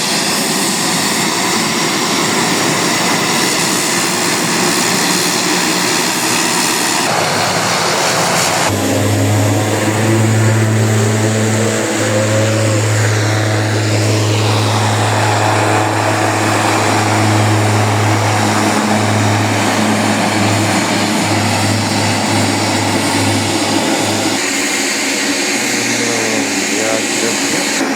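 Aircraft engines running loud at close range, a continuous rushing noise. About nine seconds in, a steady low hum joins it and holds until it fades out at about twenty-four seconds.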